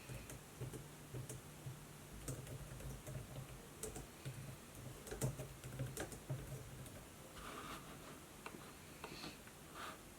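Faint typing on a laptop keyboard: irregular key clicks for about seven seconds, then a few softer brushing sounds near the end.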